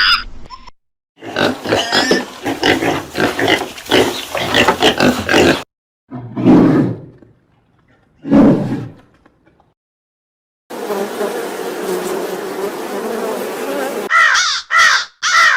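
A run of short animal-call clips, one after another with silent gaps: a busy stretch of calls, then two loud, deep, grunting or roaring calls in the middle, a noisy stretch, and a string of caws near the end.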